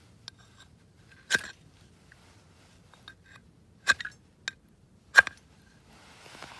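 Sharp clinks and knocks of cooking gear being handled, about four distinct hits spread over a few seconds, each with the same brief ring, followed by a short soft scrape or rustle near the end.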